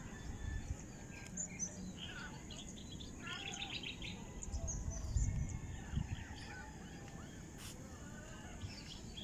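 Many small birds chirping and calling in short, scattered notes, with low gusts of wind on the microphone that are strongest about five seconds in.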